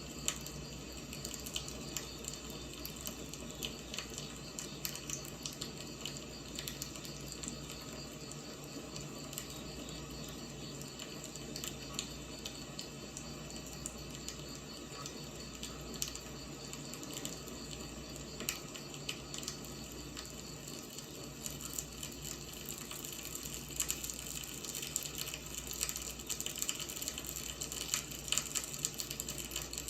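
Wood fire burning, with a steady hiss and many small sharp crackles and pops, which grow busier and louder in the last few seconds.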